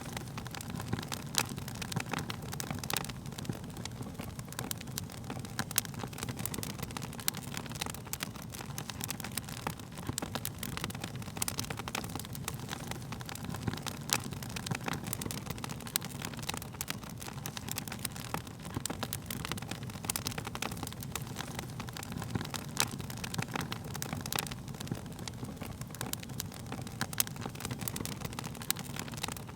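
Wood fire burning: a steady low rumble of flames with frequent irregular crackles and pops from the burning wood.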